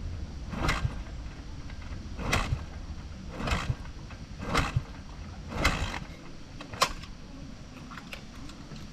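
Dirt bike being kicked over again and again, about one kick a second, each stroke a short mechanical surge as the engine turns over without catching. The bike won't start; the riders suspect the carburettor or a fouled spark plug.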